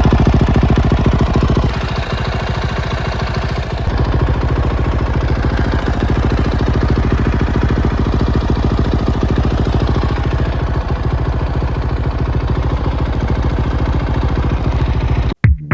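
Motorcycle engine idling with an even, rapid firing beat, cutting off abruptly near the end.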